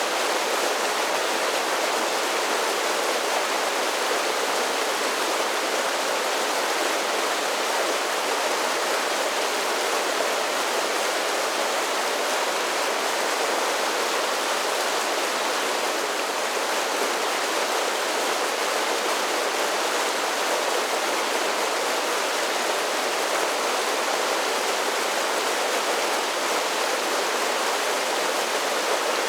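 Mountain creek tumbling over a series of waterfalls: a steady, even rush of water.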